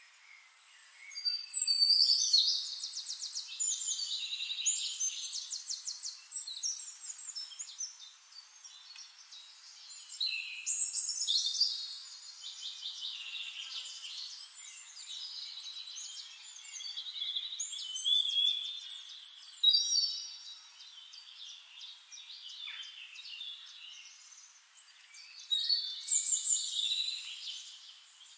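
A songbird singing in phrases of fast trills and chirps, each lasting a few seconds with short pauses between, loudest near the start and again near the end.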